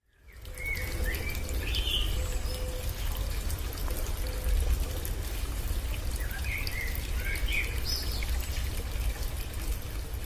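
Songbirds chirping in short, quick phrases, in two bursts about a second in and again around six to eight seconds in, over a steady background hiss and a strong low rumble.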